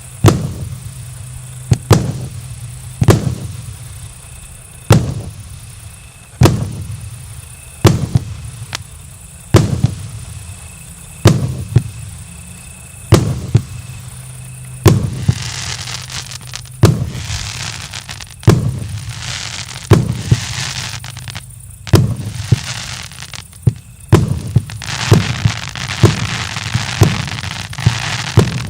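Fan-shaped multi-shot firework battery (cake) firing shells in sequence, a sharp bang roughly every second or so. From about halfway through, a dense crackling fills the gaps between the shots.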